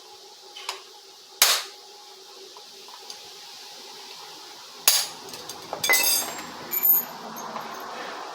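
Metal hand tools and parts clinking and knocking while a chainsaw is worked on: a few separate sharp knocks, the loudest about a second and a half in, then a cluster of clinks near the end, one ringing briefly.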